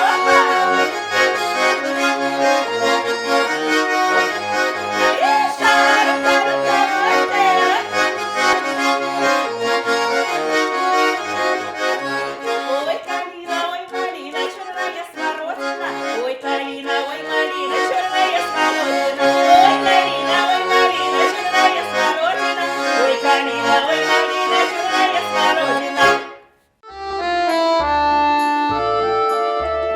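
Russian folk-style song music led by an accordion playing steadily. About 26 seconds in it cuts off suddenly, and after a moment a different piece starts with a regular low beat.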